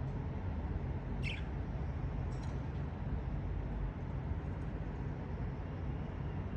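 A few short, faint budgerigar chirps over a steady low hum.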